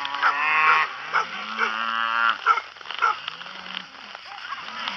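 Cattle mooing: several long calls one after another, some overlapping, from more than one animal.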